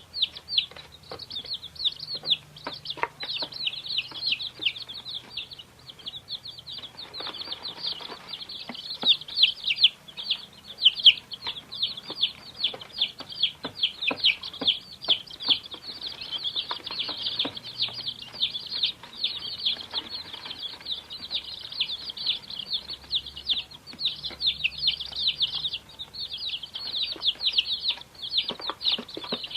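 Many baby chicks peeping together: a dense, continuous stream of short, high-pitched cheeps.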